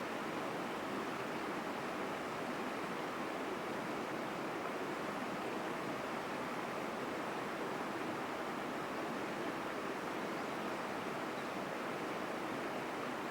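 Mountain stream flowing strongly, a steady even rush of water.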